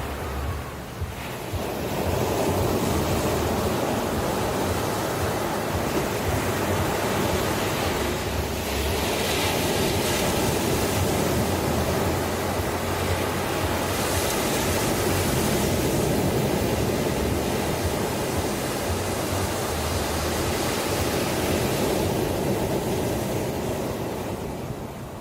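Ocean waves breaking and washing in as a steady surf, swelling about a second and a half in and easing off near the end.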